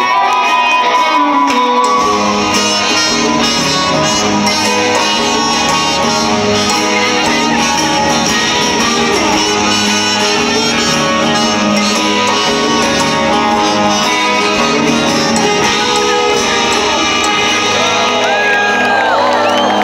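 Live rock band playing a song over an arena PA, guitars to the fore, with the low end coming in about two seconds in.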